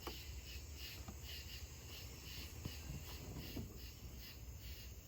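Insects chirping in a steady rhythm, about three to four chirps a second, over a faint low hum, with a few soft taps.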